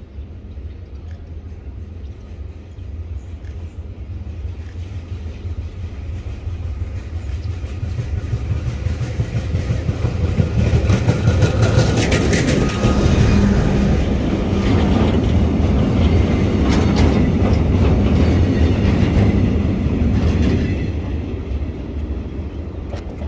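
Railway track-maintenance train approaching and passing close by, its engine and wheels rumbling and clattering over the rails. It grows louder, is loudest from about halfway through, and fades over the last few seconds.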